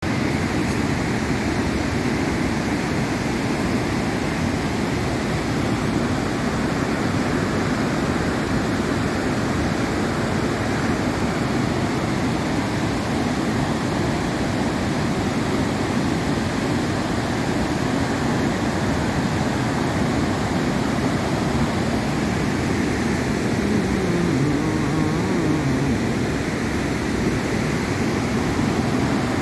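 Steady roar of a large waterfall, the Iguazu Falls, its falling water making an even, unbroken rush.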